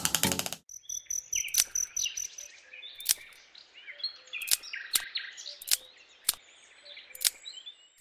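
Small birds chirping and twittering, with one high steady whistle in the first two seconds, broken by about seven sharp, irregularly spaced clicks. A music track cuts off about half a second in.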